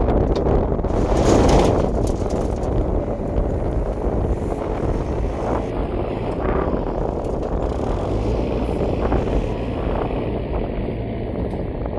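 Engine of heavy farm machinery running steadily, with a louder swell about a second in.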